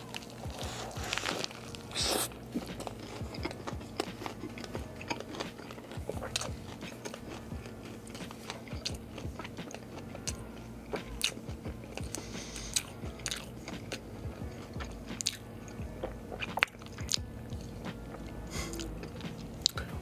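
Close-miked eating of a toasted turkey club sandwich. A crunching bite through the toasted bread comes in the first two seconds, then steady chewing with many small wet clicks and crunches.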